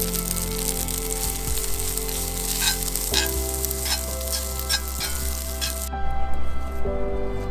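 Food sizzling and crackling as it fries in a pan, cutting off suddenly about six seconds in, over background music.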